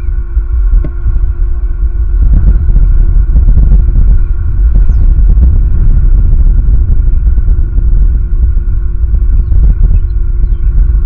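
Wind buffeting the outdoor camera's microphone: a loud, steady low rumble. Under it runs a faint steady hum, and a few brief high chirps come in near the middle and near the end.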